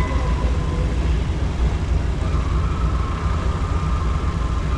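Boeing B-17's Wright R-1820 Cyclone radial engines running with a steady, loud, deep rumble, and a faint steady whine that comes in about halfway through.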